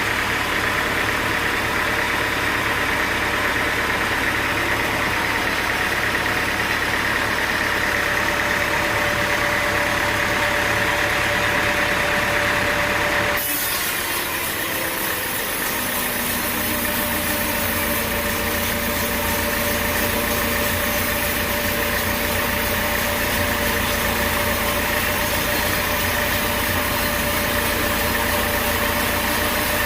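Sawmill machinery with an engine running steadily. The sound changes abruptly about thirteen seconds in, then carries on steadily.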